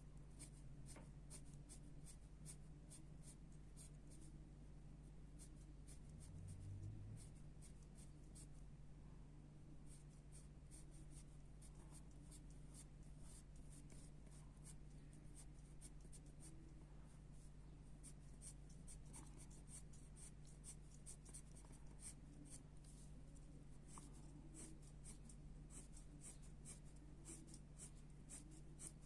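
Pencil scratching on paper in many short, quick strokes, faint, over a low steady hum.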